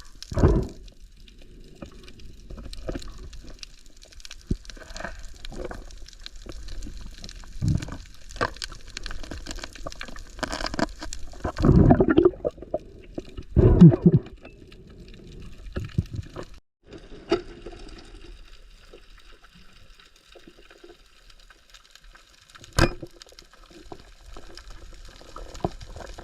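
Water sloshing and gurgling around the camera in the sea, with irregular louder surges and one sharp knock about three-quarters of the way through.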